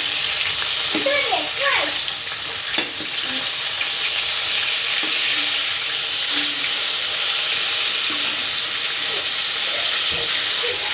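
Food frying in hot oil: a steady sizzle with occasional crackles.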